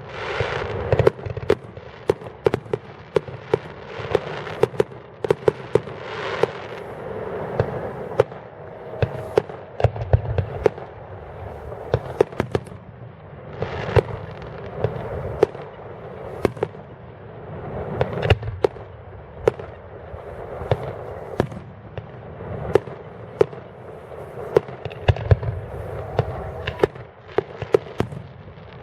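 Fireworks display going off in a continuous barrage: sharp bangs several a second throughout, with a few deeper booms among them.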